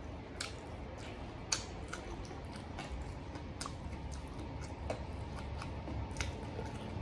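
Close-miked eating sounds of someone chewing braised pig ear, tongue and tail and handling the pieces, heard as irregular wet clicks and smacks, a few a second, over a low steady hum.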